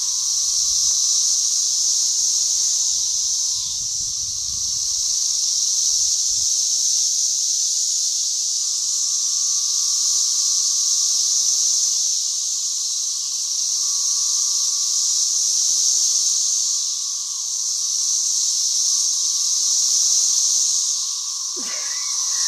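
Dense chorus of 13-year periodical cicadas: a continuous, loud, high buzzing hiss with a fainter steady drone beneath it, swelling and easing every few seconds. A few low rumbles of wind or handling noise come in the first six seconds.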